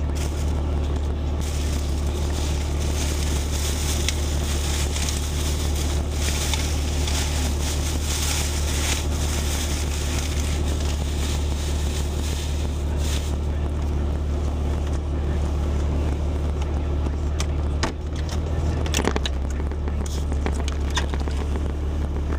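Jeep's engine idling, a steady low hum heard from inside the cabin, with crinkling and rustling of paper. A few knocks come near the end.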